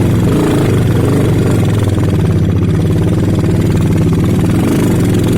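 Trail motorcycle engine running steadily at a low, even speed.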